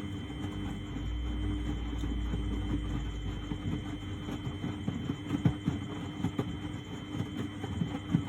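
Miele Novotronic W828 front-loading washing machine tumbling its load during the wash: the motor turns the drum with a steady hum and a faint whine, while the wet laundry drops and knocks irregularly, more heavily in the second half.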